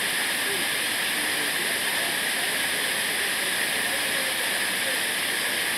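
Steady rushing of a waterfall, an even hiss of falling water with no change in level.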